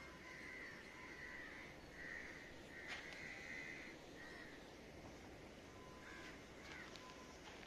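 A bird calling faintly over and over, in short calls of about half a second with brief gaps. After a pause in the middle there are two more calls near the end.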